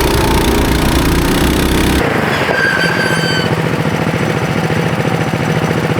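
Mini bikes' small single-cylinder engines running hard under a braking test. About two and a half seconds in, a high squeal lasting about a second, typical of disc brakes being applied.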